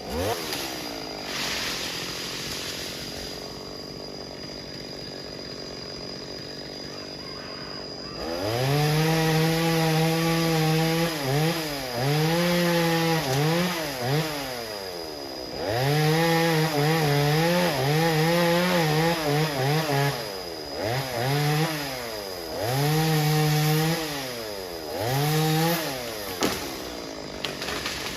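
Chainsaw idling at first, then revved hard about a third of the way in and cutting into wood in repeated bursts of a few seconds each, the engine pitch rising, holding and sagging under load between bursts.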